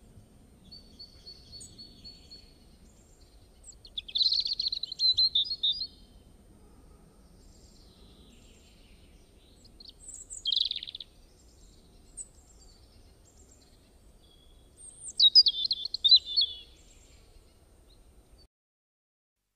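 Birds chirping and singing in three loud bursts of quick, high chirps, about four, ten and fifteen seconds in, with quieter calls between, over faint low background noise.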